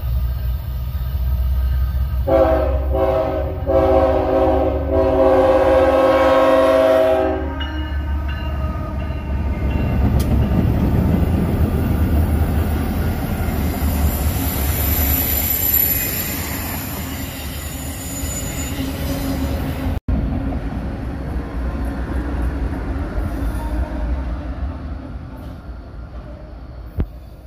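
CSX diesel freight locomotive sounds its multi-note horn for about five seconds, then rumbles past close by with steel wheels running on the rails and a faint high wheel squeal. After a sudden cut, a quieter, more distant train rumble.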